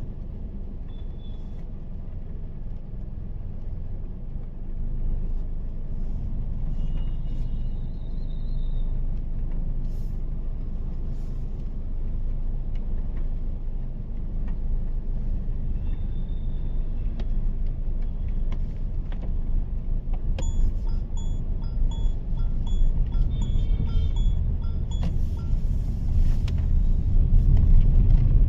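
Mahindra XUV 3XO's 1.2-litre turbo-petrol three-cylinder engine and tyres on a wet road making a steady low rumble heard inside the cabin, growing a little louder near the end. About twenty seconds in, a run of short high pings repeats for several seconds.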